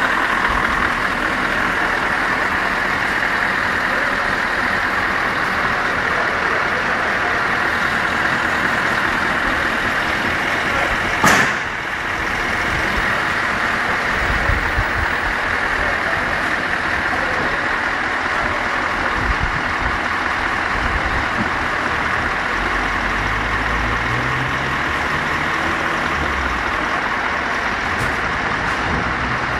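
Scania R500's V8 diesel engine running steadily, with a brief sharp burst about eleven seconds in. In the second half a deeper rumble comes in and the engine note rises a few times in steps.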